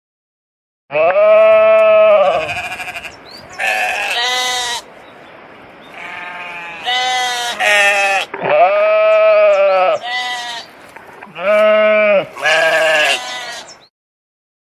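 A farm animal calling: a run of about ten drawn-out, wavering calls with short gaps, some over a second long, stopping about a second before the end.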